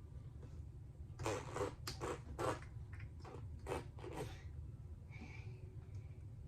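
Slime being squeezed and pulled by hand: a run of about eight short squelching creaks over a few seconds.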